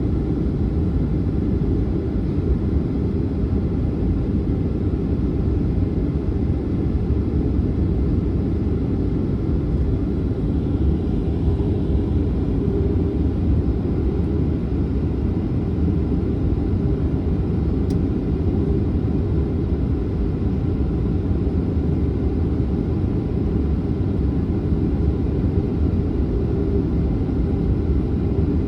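Boeing 737-900's CFM56-7B jet engines running with no change in pitch or loudness, heard as a steady low rumble.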